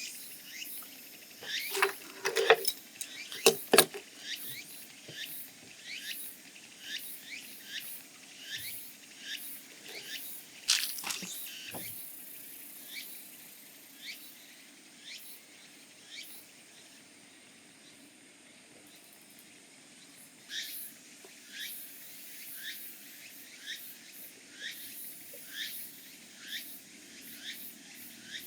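Repeated short, high chirps from a small animal, each falling in pitch, about one a second. A few sharp knocks come in the first few seconds and again about eleven seconds in.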